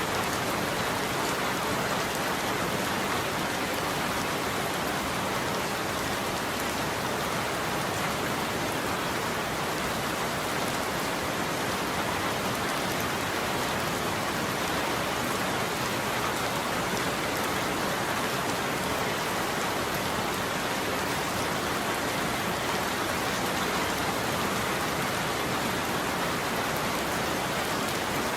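Steady rain falling on a roof, an even hiss with no thunder.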